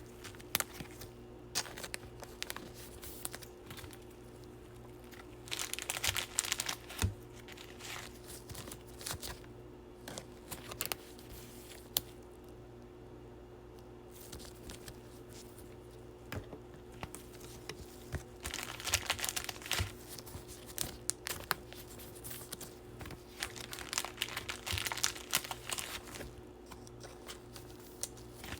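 Crinkling plastic and rustling as baseball cards and their plastic packaging are handled and sorted, in short bouts with a few light clicks between quiet pauses, over a faint steady hum.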